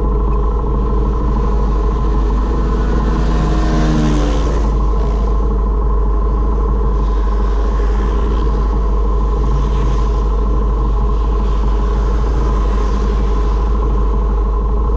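Honda MSX125's single-cylinder engine running steadily at speed with a deep rumble. About three seconds in, a brief rising engine note comes through.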